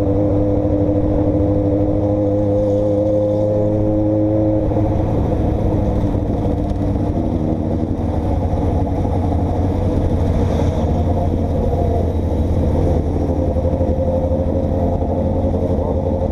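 A road vehicle's engine running steadily with road noise, as while driving along. Its pitch holds steady for the first few seconds, then shifts about four and a half seconds in.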